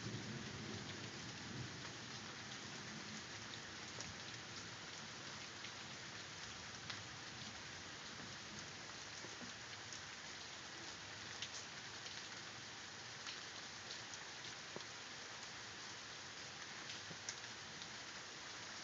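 Steady rain falling during a thunderstorm, with single drops ticking sharply now and then. A low rumble of thunder dies away over the first few seconds.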